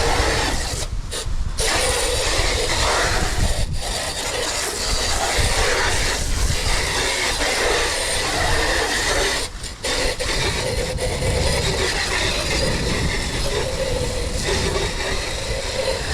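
Steady rushing of strong wind on the microphone, with water from a garden hose flushing through a roof gutter trough.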